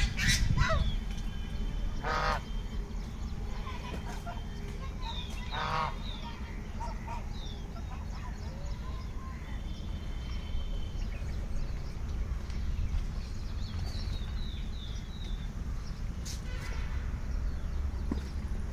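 Birds calling: a few short, stacked calls in the first six seconds and scattered short high chirps throughout, over a steady low rumble.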